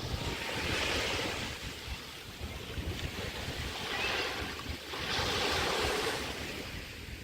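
Small waves breaking and washing up the Chesapeake Bay shore, in three swells of surf about two seconds apart, with a low rumble of wind on the microphone.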